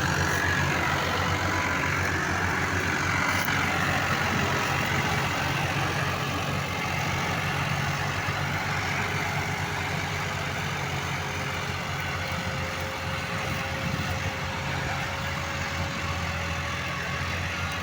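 Tractor diesel engine running steadily at a low, even rumble, with a faint thin whine that comes in about halfway through.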